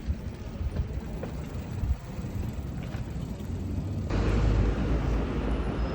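Wind and road noise on the camera's microphone during a bicycle ride: an uneven low rumble that turns suddenly louder and fuller about four seconds in.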